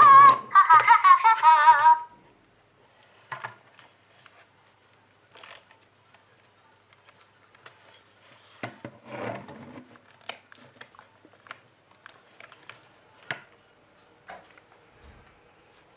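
A child's high giggling for about two seconds, then scattered small clicks and taps with a short rustle, like toys being handled.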